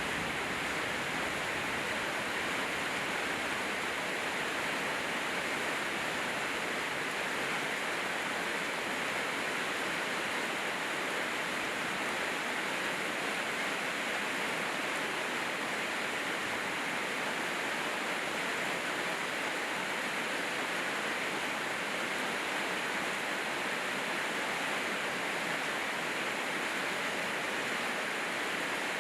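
Rain falling steadily: a continuous even hiss with no breaks or changes.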